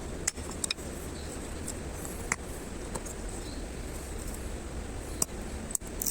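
Wood campfire crackling: a handful of sharp, irregular pops and snaps over a steady low rush.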